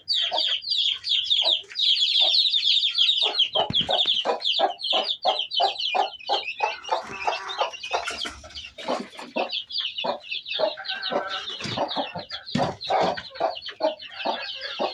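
Chicks peeping constantly in high, rapid calls, joined about three seconds in by a hen clucking low and steadily, about three clucks a second.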